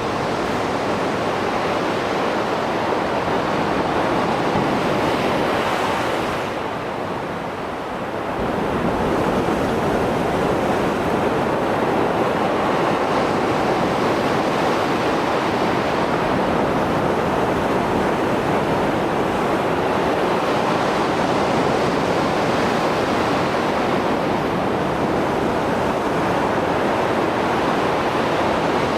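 Mediterranean sea surf after a storm, waves washing continuously onto the shore, easing briefly about seven seconds in and then building again.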